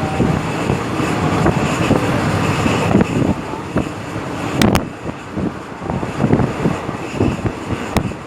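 Kiha-183 diesel railcar train running, a steady rumble with repeated knocks of the wheels over the track and two sharp clicks, one about halfway through and one near the end.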